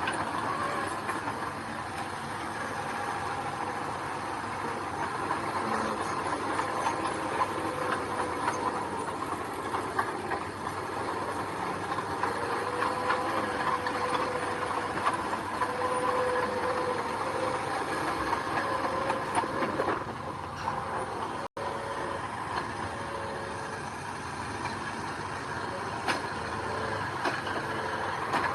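Construction machinery working gravel: a diesel engine running steadily under a continuous metallic clatter and a few held whining tones, as from a small crawler bulldozer's tracks and blade. The sound cuts out for an instant about three quarters of the way through.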